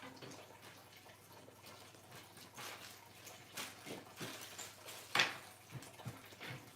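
Faint scattered clicks and light knocks from handling desk parts during assembly, with a sharper knock about five seconds in.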